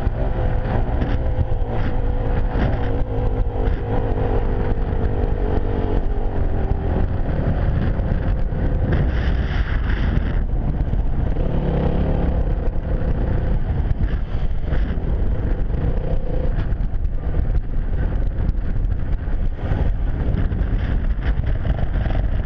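Enduro motorcycle engine running under way, its pitch changing with the throttle, over heavy wind rumble.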